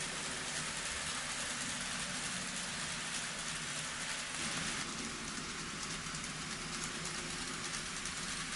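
N scale model trains running on a layout's track: a steady rolling rattle of small wheels over the rails with a low motor hum, shifting slightly about five seconds in.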